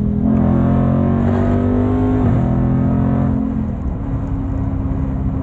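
Car engine under acceleration, its pitch held high and then dropping twice, about two seconds in and again about three and a half seconds in, before it settles at a lower, steady note.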